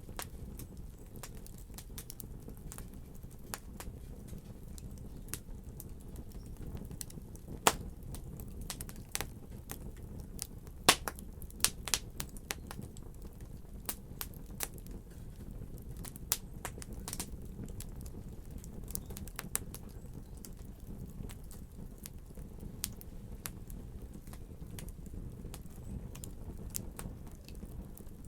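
Wood fire in a fireplace crackling and popping over a low steady rumble of burning, with irregular sharp pops, the loudest and most frequent of them from about 7 to 13 seconds in.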